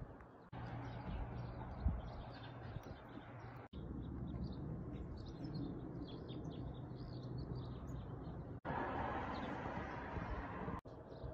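Small birds chirping and twittering in many short, scattered calls over a steady outdoor hiss. The sound drops out sharply a few times.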